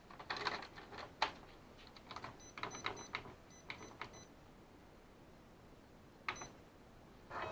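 Clicks and taps on a Kyocera M2040DN multifunction printer, with short high beeps from its control-panel keys, a few between about two and four seconds in and one more near the end.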